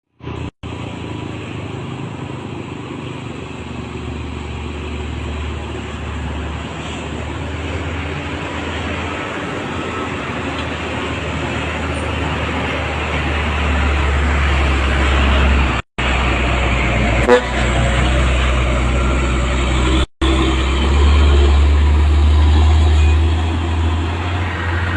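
Heavily loaded Volvo truck's diesel engine running under load, a steady low drone that slowly grows louder, with one sharp click about seventeen seconds in.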